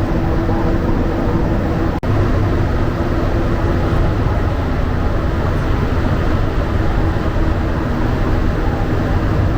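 Montreal Métro rubber-tyred train running between stations, heard from inside the car: a loud, steady rumble with a constant hum. The sound cuts out for an instant about two seconds in.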